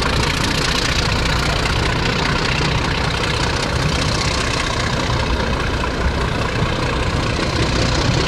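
Steady engine drone and rumble of a museum train, heard from aboard, with no single sound standing out.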